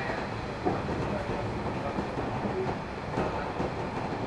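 Interior running noise of a JR 113 series electric multiple unit local train, heard inside the car: a steady rumble of wheels on rail with a few faint clicks.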